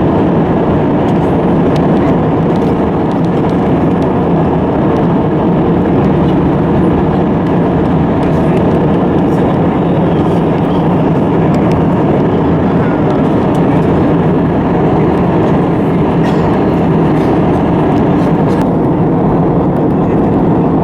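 Steady cabin noise inside an Airbus A320 in flight: an even rush of engines and airflow that holds at one level throughout.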